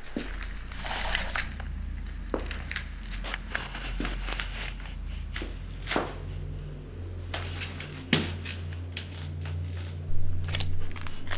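A low, steady drone with scattered sharp cracks and crunching clicks over it.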